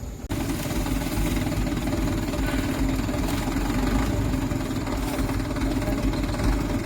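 Mitsubishi Canter light truck's diesel engine running steadily, starting abruptly a moment in.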